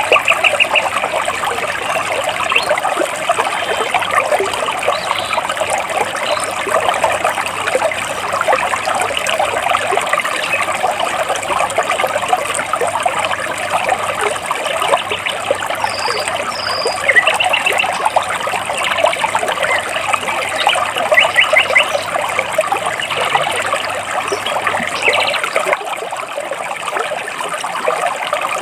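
Stream water babbling and trickling steadily over and between large rocks. A few short, rapid bird trills break through now and then, with a couple of brief high chirps.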